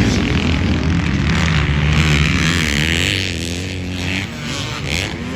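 Motocross dirt bike engines revving hard, the pitch climbing and dropping as the throttle opens and closes.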